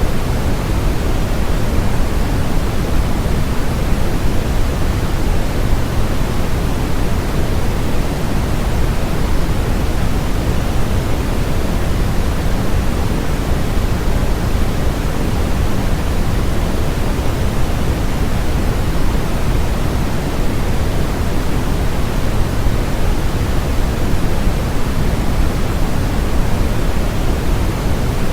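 Steady synthetic noise, even and unchanging, heavier in the low end and thinning toward the top, closer to pink noise than flat white noise.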